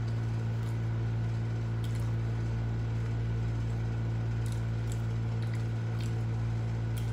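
A steady low hum runs under everything, with a few faint wet clicks and smacks of a person chewing a mouthful of biko, sticky glutinous rice cake, with the mouth closed.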